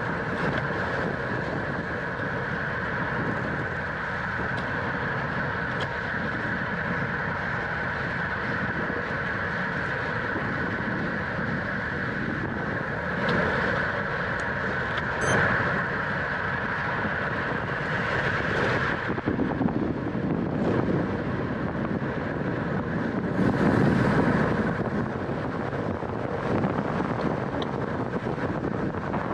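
Wind rushing over the microphone of a camera riding on a racing bicycle at speed, a steady noise that swells louder a few times, most strongly near the end.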